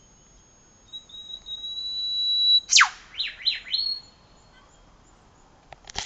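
Eastern whipbird calling: a long steady whistle that swells for about two seconds, then one loud whip-crack sweeping sharply down in pitch, followed by three short notes.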